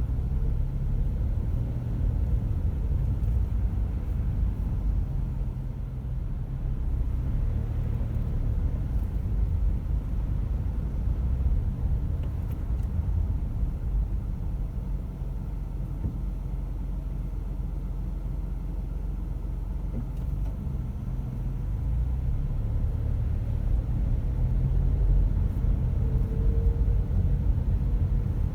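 A car driving, heard as steady low road and engine rumble. It eases a little through the middle and grows louder again near the end.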